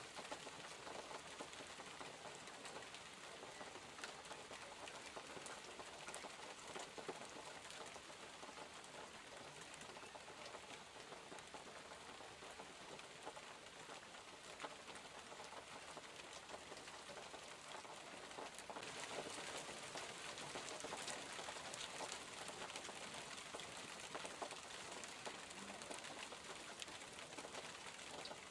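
Steady rain falling, a dense patter of many small drops that grows a little heavier about two-thirds of the way through.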